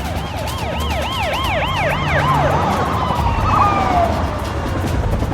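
Police car siren in a fast yelp, rising and falling about three to four times a second, then a long falling sweep just after the middle, over a steady low rumble.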